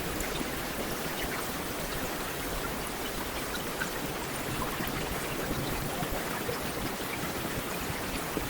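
Heavy rain falling steadily, an even hiss with scattered droplet ticks.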